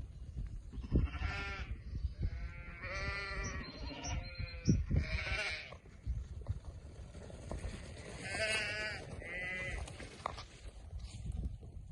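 Sheep bleating, about six calls at different pitches from more than one animal, over a low rumbling noise.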